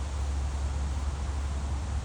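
Steady low rumble under a broad hiss, with no distinct events.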